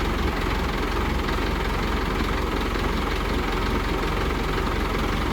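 Crane's engine running steadily at idle, a constant low rumble.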